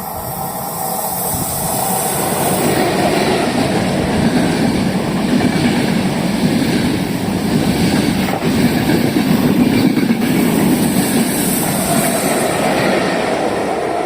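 A train passing by on the rails, growing louder over the first couple of seconds, running loud through the middle and starting to fade near the end.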